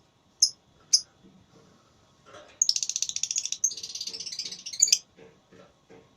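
Lovebird giving two short sharp chirps, then a rapid chattering trill (ngekek) lasting about two and a half seconds.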